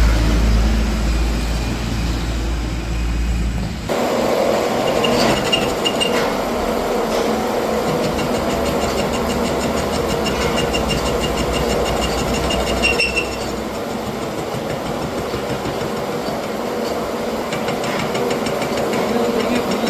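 A machine running steadily. About four seconds in, a deep hum stops abruptly and a busier mechanical sound with a fast, even ticking takes over.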